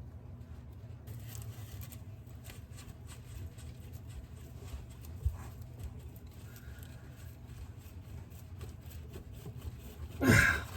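Faint clicks and scrapes of tools and parts being handled over a steady low hum, with a single sharp knock about five seconds in and a short, much louder clatter near the end.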